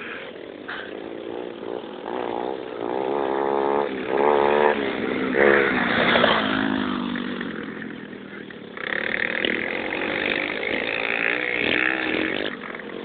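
Dirt bike engine revving, its pitch rising and falling again and again with the throttle, with a rougher, noisier stretch in the second half.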